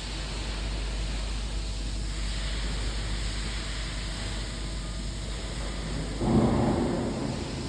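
Welding arc crackling and hissing steadily. About six seconds in, a louder rumbling rush rises and fades over about a second.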